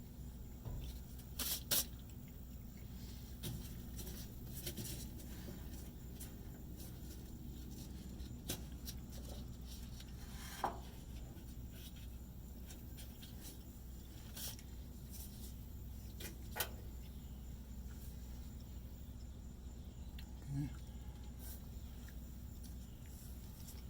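Scattered light clicks and taps of tools and parts being handled, with a close pair about a second and a half in, over a steady low hum.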